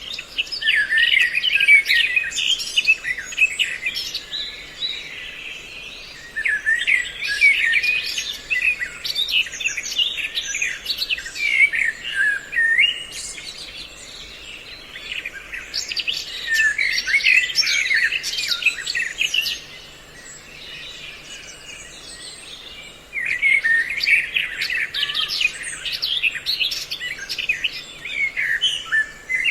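Recorded lure track of songbird calls, a mix of several species, played as a trapping call to draw birds in. Fast, chattering, warbling chirps come in four long phrases of several seconds each, with short quieter gaps between them.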